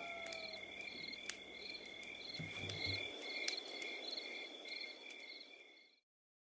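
Crickets chirping in even pulses, about two a second, over a continuous high trill, with a few faint clicks; it fades out to silence near the end.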